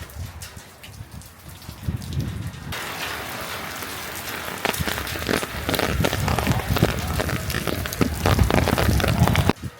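Heavy rain falling on a surface close to the microphone, dense drop impacts over a low rumble. It swells in about three seconds in and cuts off suddenly near the end.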